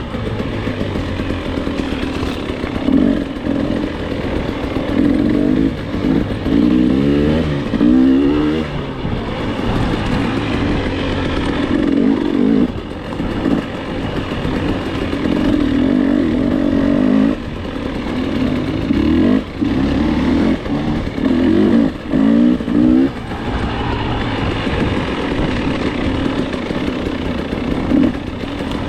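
Dirt bike engine running under hard throttle. It revs up in repeated rising sweeps, with brief drops where the throttle closes or it shifts.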